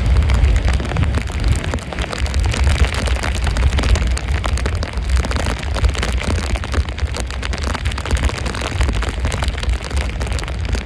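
Strong storm wind buffeting the microphone, a heavy, unsteady rumble with a crackling hiss over it, the gusts easing slightly near the end.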